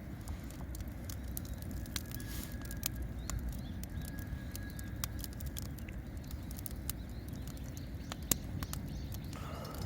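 Wood campfire crackling: irregular sharp pops and snaps, one louder about eight seconds in, over a steady low rumble.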